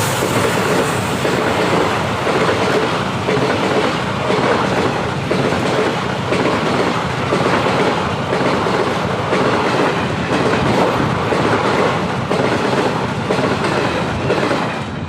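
Train running along the rails: a loud, steady rumble of wheels on track, with faint regular clicks throughout.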